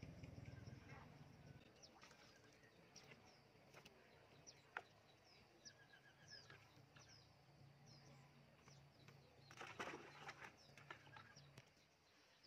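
Faint outdoor ambience with small birds chirping: many short, high, quick chirps and a brief rapid trill near the middle, over a faint low hum. A sharp click about five seconds in and a short cluster of knocks or rustles near ten seconds are the loudest moments.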